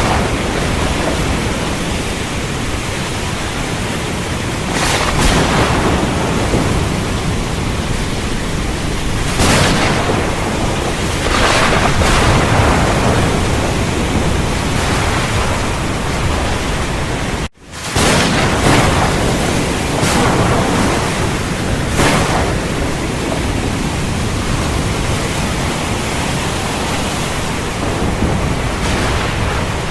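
Heavy rain falling steadily with rumbling thunder and several swelling rushes of louder rain. The sound cuts out for a split second a little past halfway, then resumes.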